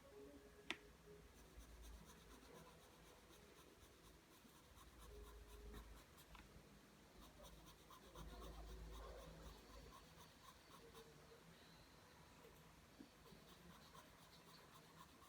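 Pencil drawing lines on paper: a steady run of short scratchy strokes, with one sharp click about a second in.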